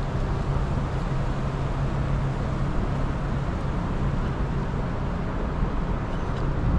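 Wind buffeting the microphone: a steady, even rumble, with a faint low hum under it.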